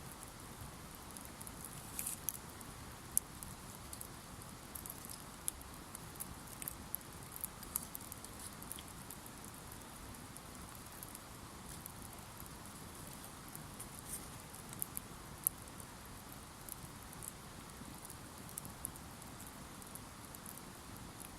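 Wood campfire crackling: irregular sharp pops and snaps over a faint steady hiss, thicker in the first several seconds and again past the middle.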